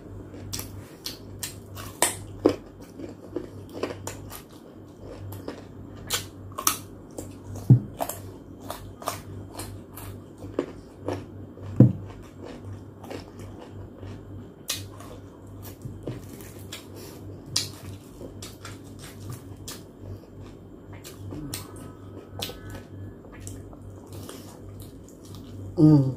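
Close-miked eating sounds of a person chewing ripe mango and roast pork leg: wet chewing with many sharp clicks and lip smacks, over a steady low hum. A short voiced "mmm" comes near the end.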